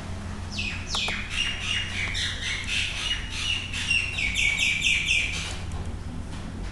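A bird calling in a quick series of short, shrill chirps, about three a second, starting about half a second in and stopping shortly before the end, over a steady low hum.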